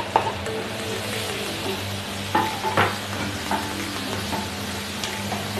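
Diced carrots sizzling in melted butter and garlic in a stainless steel pan as a wooden spatula stirs them, with a few sharp knocks of the spatula against the pan, two of them close together midway.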